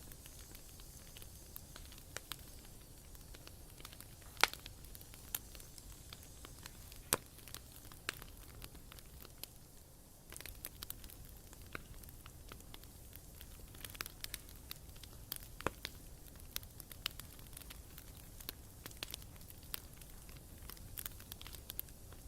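Bonfire burning: a low steady hiss with irregular sharp crackles and pops from the burning wood. The loudest snaps come about 4 s, 7 s and 15 s in, and the pops come thicker in the last third.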